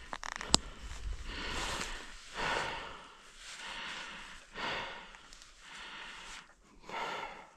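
A person breathing heavily and audibly, with a loud noisy breath about once a second. A couple of sharp clicks come right at the start.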